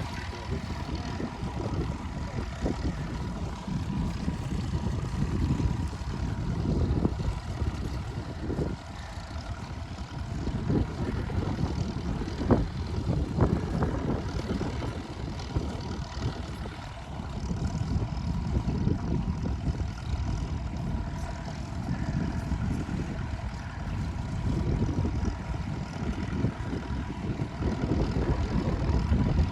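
Low, uneven rumble of ploughing machinery running, with a faint steady high tone underneath.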